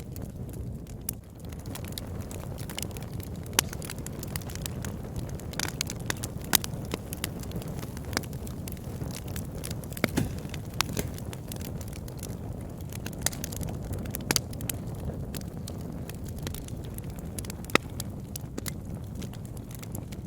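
Wood fire crackling in a fireplace: a steady low rumble of burning, with frequent sharp snaps and pops scattered irregularly and a handful of louder ones.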